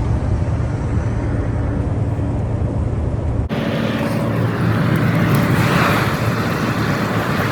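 Steady running of a vehicle engine with road noise, cutting off abruptly about halfway through to a different, hissier vehicle rumble.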